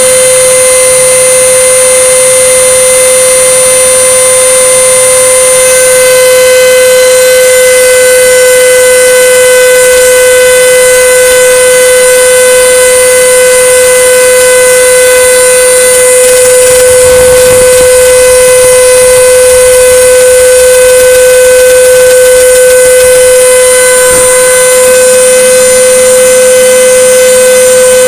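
CNC router spindle running with a loud, steady high-pitched whine while milling 5 mm plywood, with a brief rougher noise about two-thirds of the way through.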